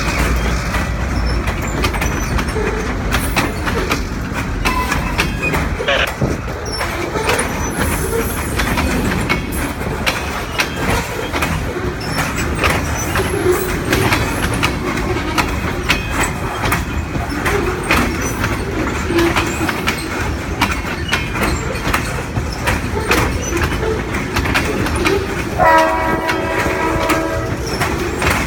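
Loaded freight train rolling past, its wheels clicking steadily over the rail joints. Near the end a locomotive horn sounds for about two seconds.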